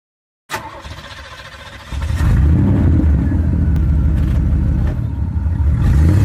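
Car engine sound starting suddenly about half a second in, then growing louder about two seconds in and settling into a steady low running rumble.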